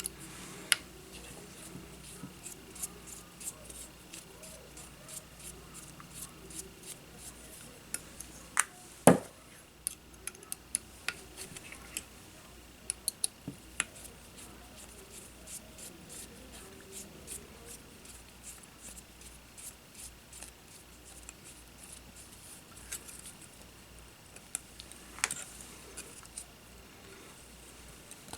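Hand tools and small parts being handled at a workbench during a drone frame repair: a string of small, sharp clicks and ticks, with one louder knock about nine seconds in.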